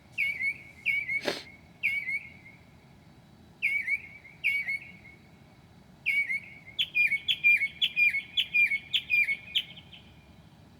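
Northern mockingbird singing at night, repeating short sharp phrases several times over, then a fast even run of about three notes a second from about seven seconds in. A brief click sounds about a second in.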